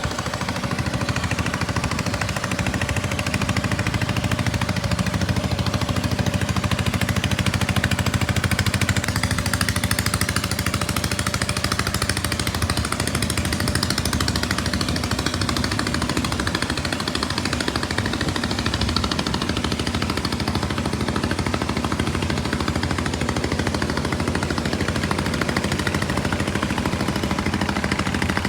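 Boat engine running steadily with a rapid, even pulsing beat.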